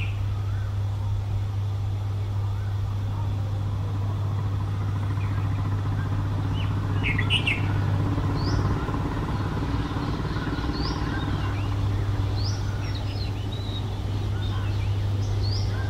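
A steady low hum of background noise, with scattered short bird chirps over it: a small cluster about seven seconds in, then several brief, higher chirps through the second half.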